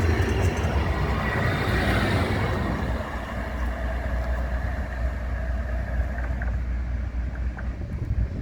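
Tram running past with a low rumble and rolling hiss that fades after about three seconds as it moves away.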